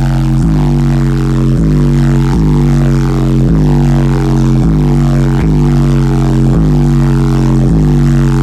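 A car audio competition subwoofer system playing a bass-heavy track at very high volume: a deep droning bass line whose note pattern repeats about once a second.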